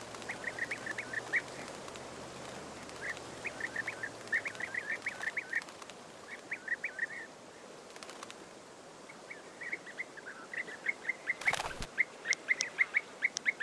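European bee-eaters calling: bouts of short, quick rolling notes repeated in runs, with a brief sharp click about eleven and a half seconds in.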